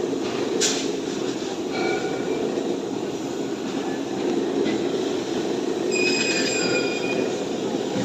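Steel cutting machine running steadily, with a click under a second in, a brief metallic squeal about two seconds in and a longer, high metallic squeal about six seconds in.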